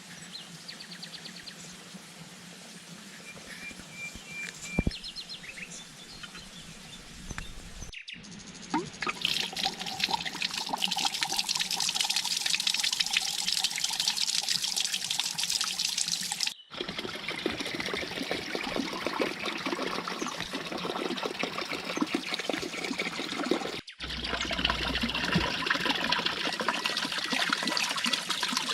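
Running, pouring water over several cut shots, after a quieter opening stretch with a few short high chirps.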